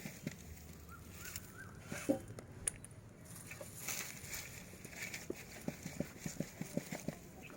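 Faint handling of potting soil and a grow bag: scraping and soft irregular taps, with a quick run of dull taps in the second half.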